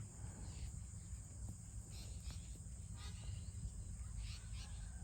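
Outdoor rural ambience: scattered short, high bird chirps, a handful across the stretch, over a steady low rumble.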